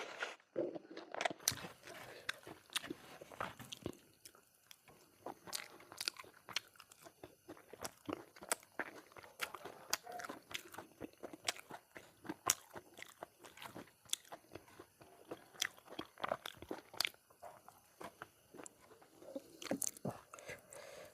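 Close-miked eating: a person chewing and biting food, with many sharp, irregular crunches.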